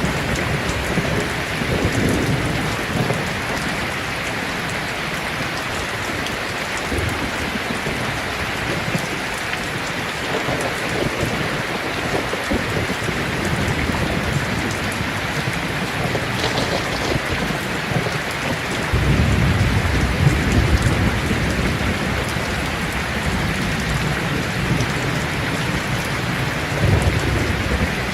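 Heavy rain falling steadily on a tin roof. Thunder rumbles in low about two-thirds of the way through and swells again near the end.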